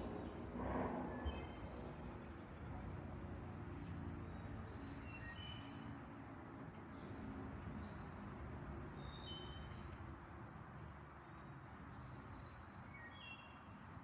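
Faint outdoor ambience: a steady insect drone, with short high bird chirps every few seconds.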